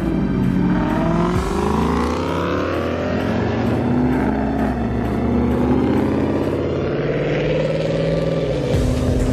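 A car engine revving and accelerating, rising in pitch for about two seconds, then running steadier before dropping near the end.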